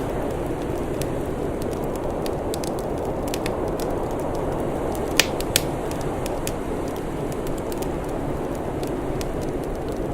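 Wood fire crackling, with scattered sharp pops and two louder pops about five seconds in, over a steady low rushing noise.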